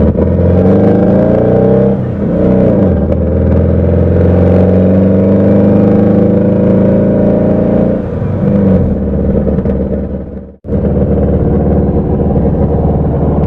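Air-cooled VW Beetle flat-four engine pulling the car along, its note dipping and climbing again about two seconds in, then sliding down near two-thirds of the way through. The sound drops out for an instant before the engine runs on at a steady note.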